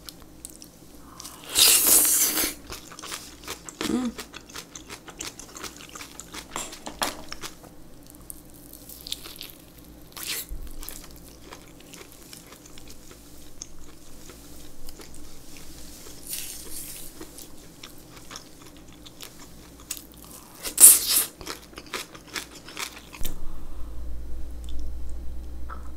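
Close-miked eating of boiled pork belly wrapped in napa cabbage kimchi: a loud crunchy bite about two seconds in and another near the end, with steady wet chewing and small mouth clicks between.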